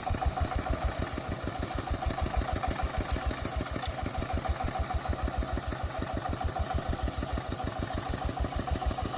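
Agricultural truck's engine running steadily at a low, even chug, about nine beats a second.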